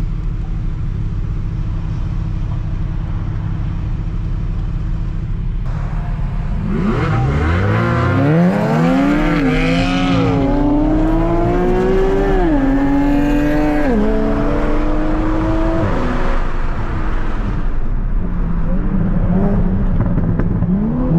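Tuned Toyota Supra MK5's turbocharged B58 inline-six cruising with a steady low drone, then, about seven seconds in, pulling hard under full throttle. The engine note climbs and drops back at each of several quick upshifts, then eases back to a low cruise.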